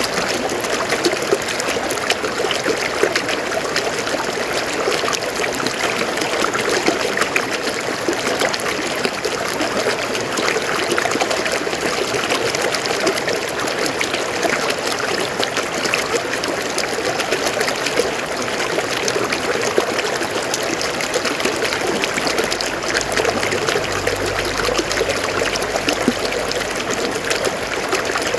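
River water flowing and splashing steadily over rocks, a continuous babbling rush.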